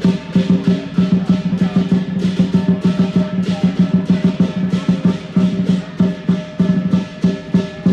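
Chinese lion dance percussion: a large drum beaten in a fast, steady rhythm with crashing cymbals on the beats over a sustained ring.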